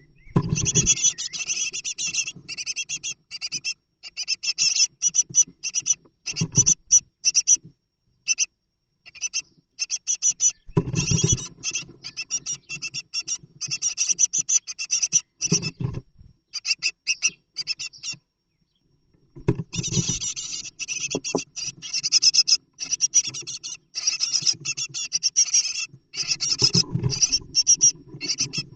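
Scratching and rustling inside a great tit nest box as the birds move about in the nest material, in short choppy bursts, with a few dull thumps against the box.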